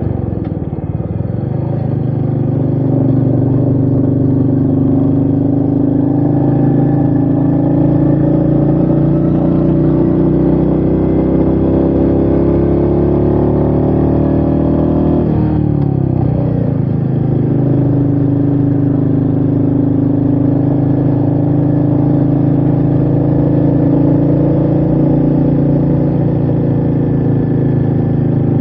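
Royal Enfield Meteor 350's single-cylinder engine under way on the ride. Its note rises slowly through the first half, the revs drop sharply about halfway through, and then it runs steadily.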